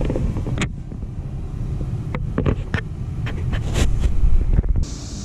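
Train passing on the main line: a steady low rumble with wind on the microphone and a few short clicks.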